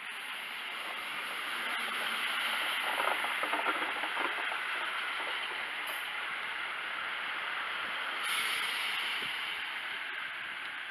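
Class 158 diesel multiple unit rolling along the platform: a steady rush of wheels on rail that swells over the first few seconds, with a short burst of hiss about eight seconds in.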